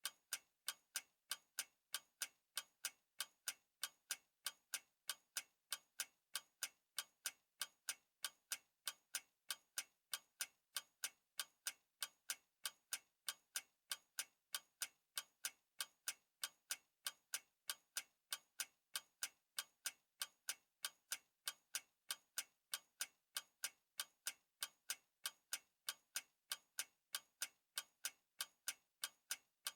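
Clock ticking steadily, sharp even ticks a few times a second with no change in pace.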